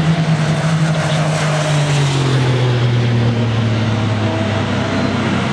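Racing saloon or sports car engines running loud at the circuit. One engine note falls steadily in pitch over two or three seconds as the car goes by.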